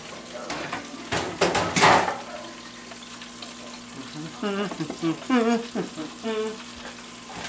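Battered pickles sizzling in hot oil in a deep fryer, with a louder burst of crackling noise about a second in.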